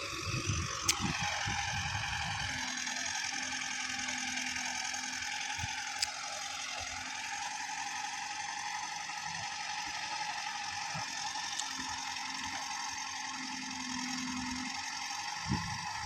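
Tractor engine running steadily, with mechanical clatter and rattling.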